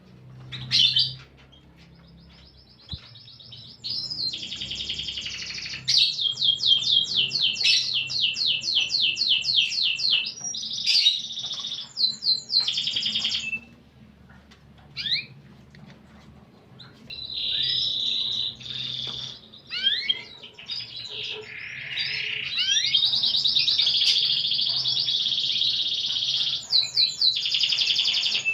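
Domestic canary singing long phrases of fast repeated trill notes and rolls, with a pause of a few seconds near the middle before the song resumes.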